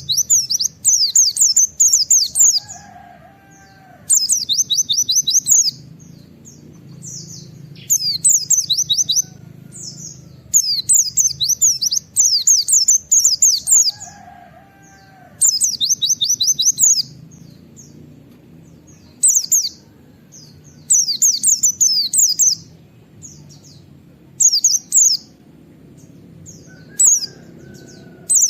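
A white-eye (pleci) singing in rapid-fire bursts of high, quick sweeping 'wit wit' notes. Each phrase lasts one to two seconds and comes again every couple of seconds.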